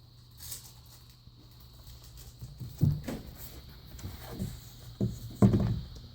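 Pieces of a magnet-joined desk pad being handled on a desk: a series of about six short, sudden thuds and clacks, the loudest about three seconds in and near the end.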